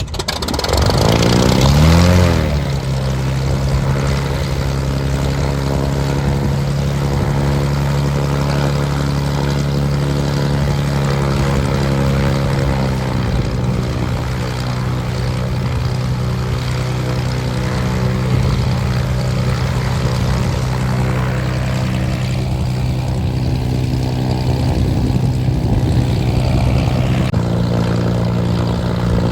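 Propeller aircraft engine rising in pitch over the first couple of seconds, then running steadily, settling a little lower about halfway through and picking up slightly near the end.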